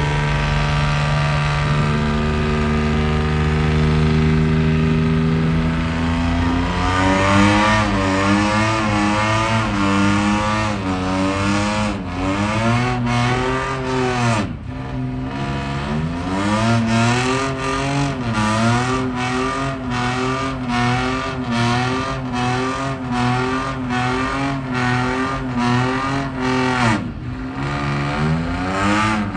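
A vehicle engine held at steady revs, then revved up, with the revs wavering up and down. The revs drop sharply twice, about halfway through and near the end.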